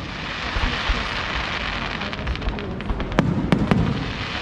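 Fireworks display going off: a continuous crackling hiss of bursting shells, with three sharp bangs and deep booms in quick succession a little after three seconds in.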